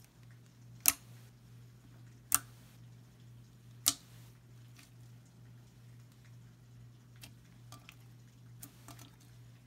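Three sharp clicks about a second and a half apart, then a few fainter clicks later on, over a low steady hum.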